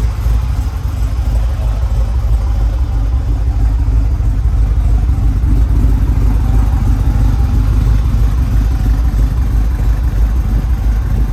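LS 408 stroker V8 idling steadily, its sound mostly a low rumble.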